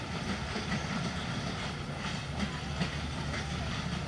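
Broad-gauge intercity passenger train's coaches rolling along the rails: a steady low rumble with scattered wheel clicks on the track.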